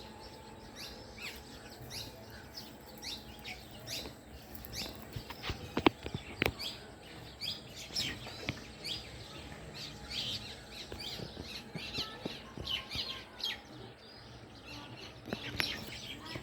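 A group of house sparrows chirping: many short, repeated chirps overlapping without pause. A couple of sharp clicks stand out about six seconds in.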